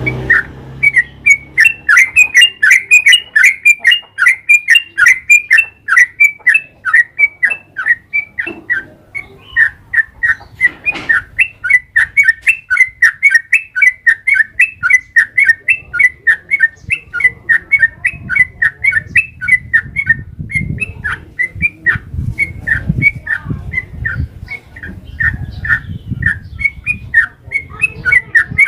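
Yellow-vented bulbul (trucukan) singing a long unbroken run of short, sharp chirping notes, about three a second. A low rumble sits under the song in the second half.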